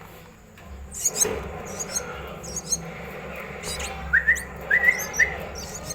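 Hungry five-day-old myna nestlings begging for food with repeated short, high chirps, starting about a second in. Near the end there are a few short rising whistle-like notes.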